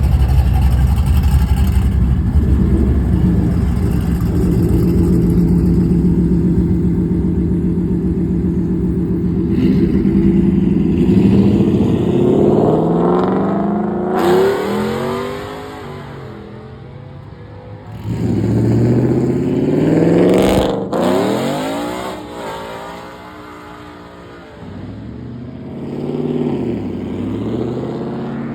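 Car engines: a steady engine drone for about the first third, then cars accelerating hard one after another, each a rising engine note. The loudest pull comes about two-thirds of the way through, with a sharp click in the middle of it.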